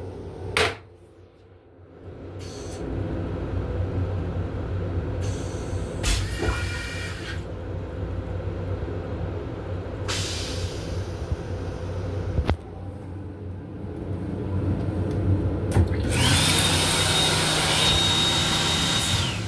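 Fixtures of an M7 railcar restroom over the car's steady low rumble: a couple of clicks and short hisses, then near the end about three seconds of a loud, steady rushing blower with a high whine that cuts off.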